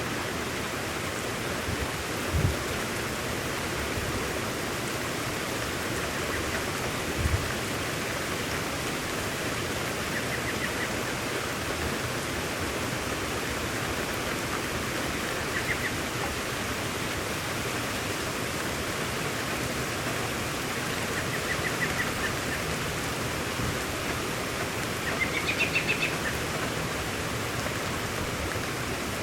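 Steady rain falling, an even hiss, with a bird chirping briefly several times. Two low thumps come a few seconds apart near the start.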